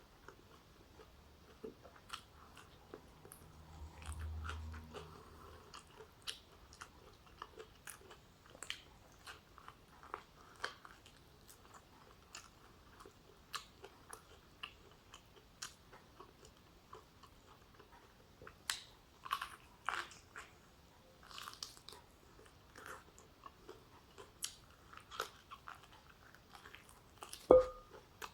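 Close-miked chewing and biting of food, with many small wet mouth clicks scattered throughout. There is a brief low rumble about four seconds in and a single sharp knock with a short ring near the end.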